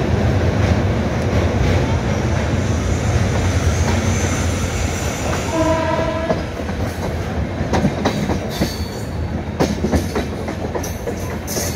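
Moving passenger train heard from an open coach door: a steady low rumble as it runs over a steel truss bridge. A train horn sounds once, briefly, about six seconds in. Then come irregular clacks as the wheels cross the points.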